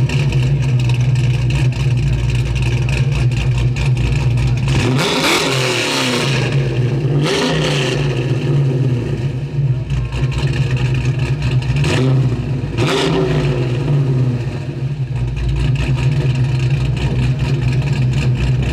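The 1973 Mercury Comet GT's engine idling loudly, with a few sharp throttle revs whose pitch climbs and falls back, about five seconds in, again near eight seconds, and twice around twelve to thirteen seconds.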